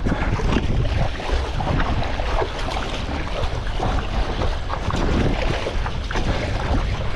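Strong wind buffeting the microphone over choppy sea water, with constant irregular splashing and slapping of water around a stand-up paddleboard.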